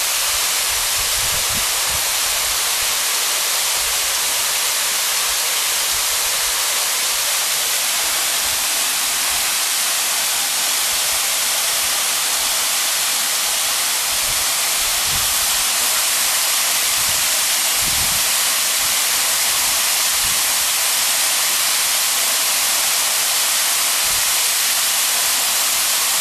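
Waterfall pouring steadily: a loud, unbroken rush of falling water. A few soft low thumps sound now and then underneath it.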